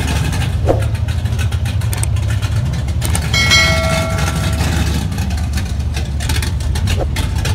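Plymouth Satellite's V8 engine idling as the car rolls slowly along, a steady low rumble. A short ringing tone sounds over it about three seconds in.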